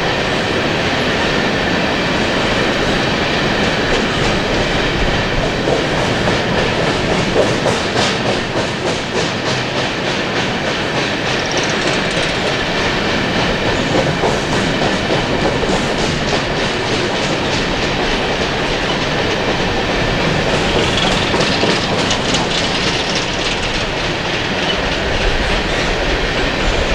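Coal train hopper cars rolling past, with a steady rumble and a rapid clickety-clack of wheels over the rail joints.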